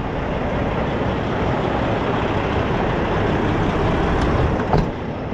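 Steady low rumble of a heavy truck engine running, with a short knock a little before the end.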